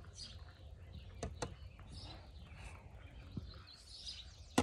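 Birds chirping faintly over a low background rumble, with two light clicks about a second and a half in and a sharper click near the end.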